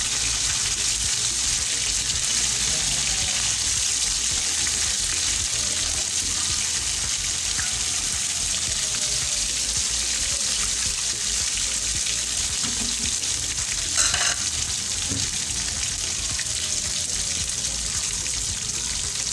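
Slices of boiled beef frying in hot oil in a tawa, a steady sizzle. One sharp click comes about two-thirds of the way through.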